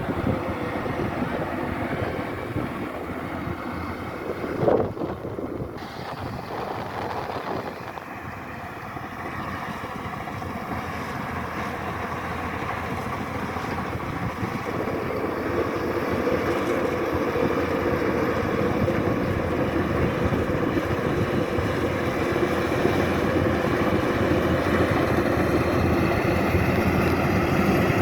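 Kubota DC-105X combine harvester running steadily while harvesting rice, with a brief sharp sound about five seconds in. The running sound grows louder through the second half.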